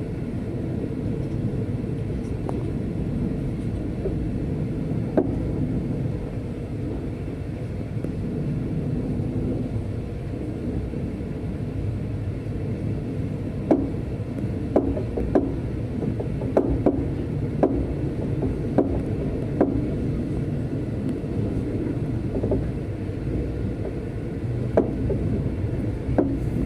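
Passenger train running at speed, heard on board: a steady low rumble, with a run of short, sharp clicks and knocks through the second half.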